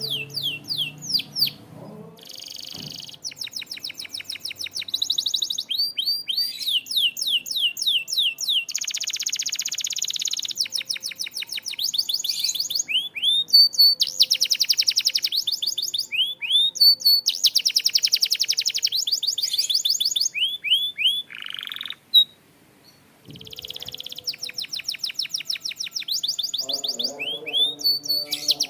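Canary singing a long, varied song of fast trills and rolling runs of repeated high notes, broken by short gliding whistles, with a brief pause about two-thirds of the way through. Low background music sounds under it at the start and again near the end.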